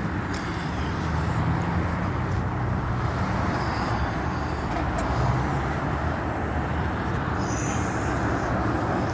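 Car driving: a steady engine hum under even road and tyre noise.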